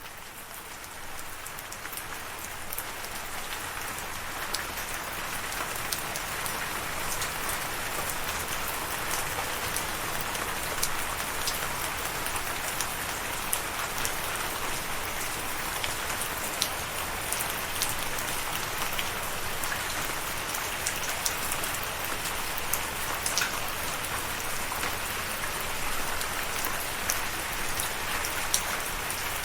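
Steady rain falling on a surface, an even hiss with many scattered sharp drop ticks. It fades in over the first few seconds, then holds steady.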